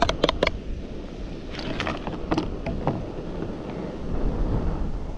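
Chopped onion, red pepper and herbs sizzling in a small wok on a camping gas stove, with a cluster of sharp clicks and clatters at the start and another a couple of seconds in. Wind rumbles on the microphone underneath.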